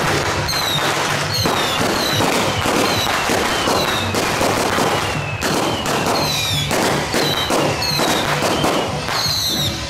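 Strings of firecrackers crackling densely and without pause, with music underneath. Short high falling whistles repeat about once a second above the crackle.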